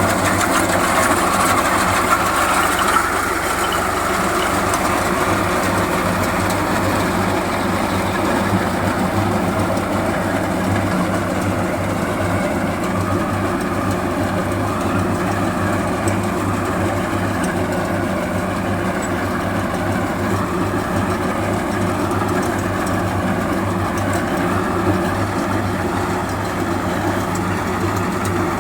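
Swaraj 735 FE tractor's three-cylinder diesel engine running steadily at a low, even speed, a little louder for the first few seconds.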